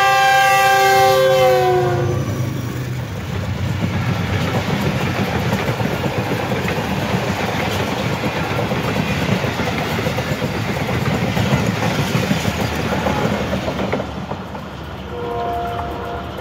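GE U20 diesel-electric locomotive sounding its multi-tone horn as it passes at speed, the pitch dropping as it goes by. Then the coaches run past in a long, steady rush of wheel and rail noise. A fainter horn sounds briefly near the end.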